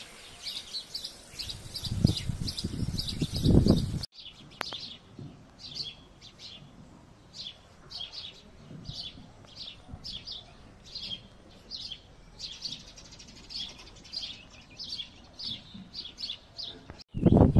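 Small songbird chirping over and over, short high chirps about two a second. A loud low rumble lasts for about two seconds near the start.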